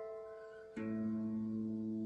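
Instrumental intro on harp: a plucked chord rings and fades, then about three quarters of a second in a lower chord is struck and rings on steadily.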